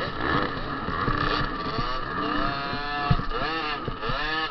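Small 50 cc two-stroke motocross bike engines revving up and down, several at once, their pitch rising and falling with the throttle.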